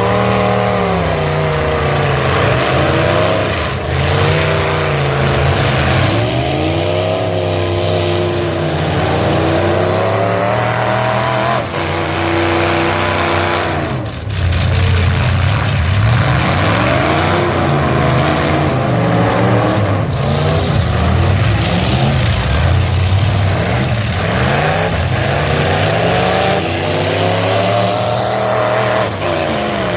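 Full-size pickup truck engines running hard under racing load, the pitch repeatedly rising as they rev and falling as they back off, with short dips in the noise about four, twelve and fourteen seconds in.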